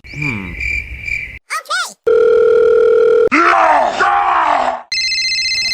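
A cut-together string of telephone sounds: a steady high beep, then a lower held dial-tone-like tone, and near the end a multi-tone ring, between short gliding vocal exclamations.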